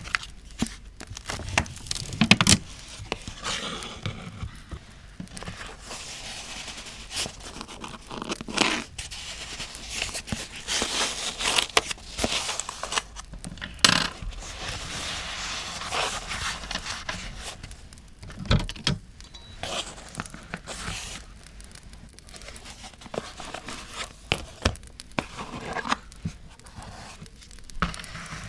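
Paper being handled for scrapbooking: tearing, crinkling and rustling in irregular swells, with many small sharp clicks and taps. A campfire crackles underneath.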